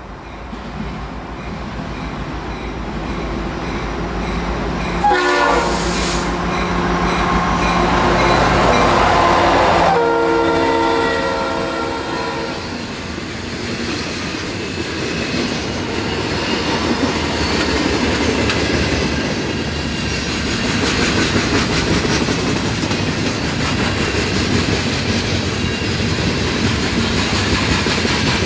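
Diesel freight train approaching, its engine rumble growing louder; about five seconds in, the locomotive's multi-tone air horn sounds for about eight seconds and drops in pitch as the locomotive passes. The cars then roll by with a steady clatter of wheels on the rail joints.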